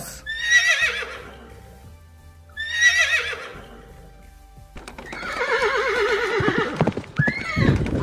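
Horses whinnying: two high, falling, quavering whinnies in the first few seconds, then a longer whinny from about five seconds in, with hoofbeats on the ground from about six seconds in.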